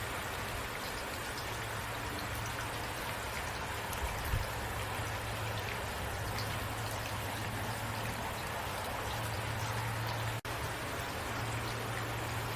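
Steady rain with fine pattering drops over a low steady rumble. The sound cuts out for an instant about ten seconds in.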